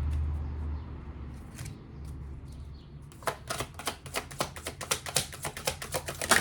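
Oracle cards being shuffled by hand: a fast, irregular run of crisp card clicks and taps starting about three seconds in.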